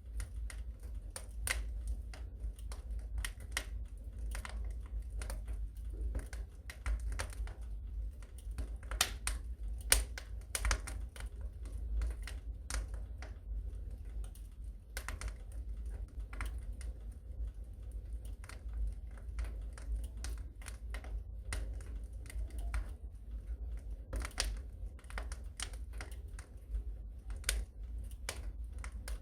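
Fire in a fireplace crackling: irregular sharp snaps over a steady low rumble, with one louder snap about ten seconds in.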